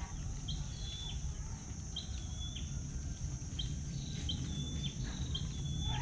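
A bird calling repeatedly: five short, high chirps, each sliding up and then holding a steady note, over a steady high hiss.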